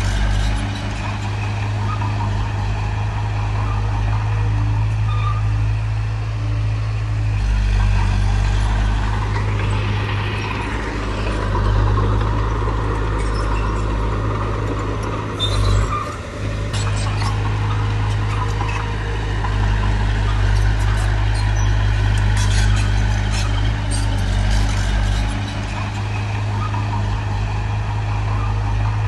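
Heavy diesel engine of earthmoving machinery running steadily, with small swells in level and scattered light clicks and clanks.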